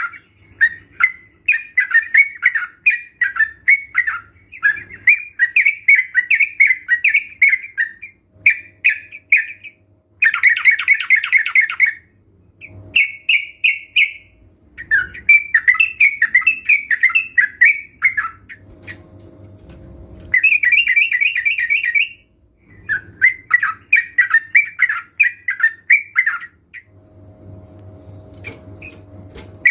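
Yellow-vented bulbuls (trucukan), several at once, chattering and singing in repeated bubbly phrases of about two seconds with short pauses between. Denser, louder bursts come about ten and twenty seconds in.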